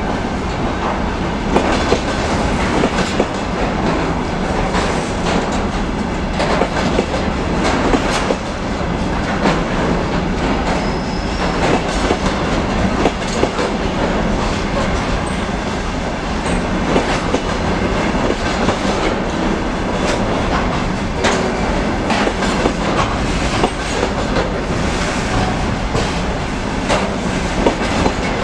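Container train of flat wagons rolling past: a steady rumble of steel wheels on rail, broken by many short, irregular clicks and knocks as the wheelsets pass over rail joints.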